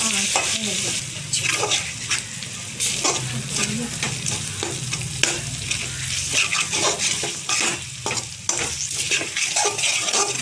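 Chopped tomatoes and ground masala paste sizzling in hot oil in a metal kadai, while a perforated metal spatula stirs them in repeated short scraping strokes against the pan. A steady low hum runs underneath.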